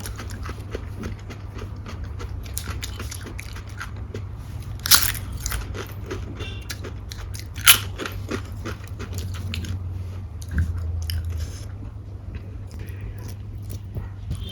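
A person eating close to the microphone: steady chewing with crisp crunches, and two loud sharp cracks about five and eight seconds in.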